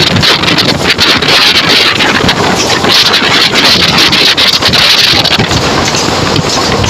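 Train running across a railway bridge: a steady loud rumble with irregular clatter from the wheels on the rails, and heavy wind noise on the microphone.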